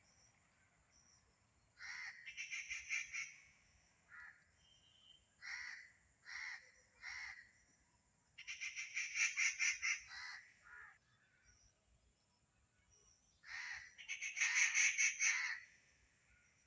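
A bird calling in three loud bursts of rapid, rattling pulses, each lasting about a second and a half, with single short notes in between.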